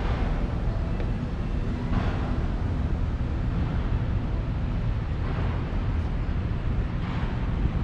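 Steady low rumble of city street traffic, with brief swells of hissing noise about two, five and seven seconds in, like vehicles passing.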